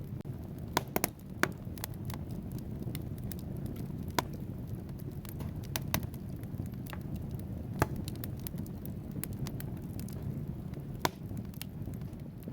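Logs burning in a fireplace: a steady low rush of flames with irregular sharp crackles and pops from the wood, a few louder snaps among them, several close together about a second in.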